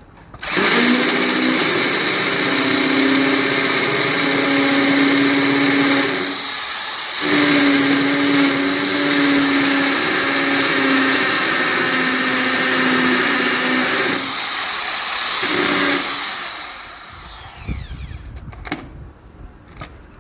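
Electric power tool running loudly, a steady hum under a strong hiss. It dips briefly twice, then winds down with a falling pitch near the end.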